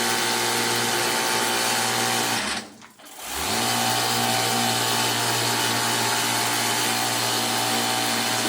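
Pressure washer running with a steady hum and spray hiss, which cuts out about two and a half seconds in, then starts up again within a second and runs on steadily.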